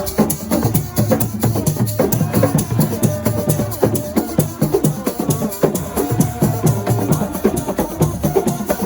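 Senegalese Assiko percussion music: a fast, steady rhythm of drum strokes with a rattling shaker-like top.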